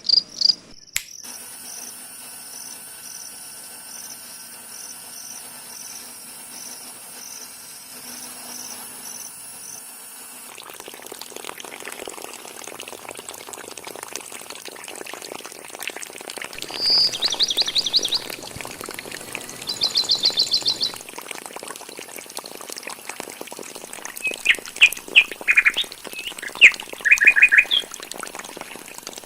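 Birds and an insect calling: a high pulsing insect call repeating a little under twice a second for the first ten seconds, then birds chirping, with two short rapid trills in the middle and a cluster of sharp chirps near the end.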